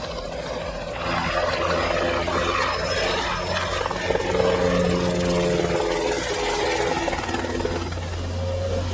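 Helicopter flying low and hovering, a steady low drone of rotor and engine with steady tones that swell in the middle.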